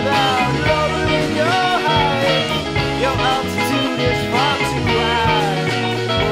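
Indie funk band playing an instrumental passage: a moving bass line and drums under a lead line of sliding, bending notes.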